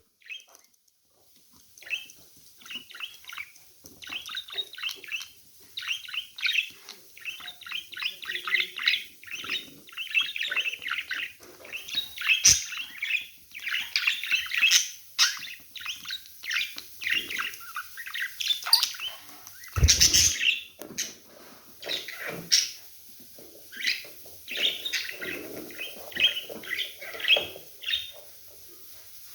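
Budgerigars chattering in a run of short, quick chirps and warbles. There is a sharp click near the middle and a loud thump about two-thirds of the way through.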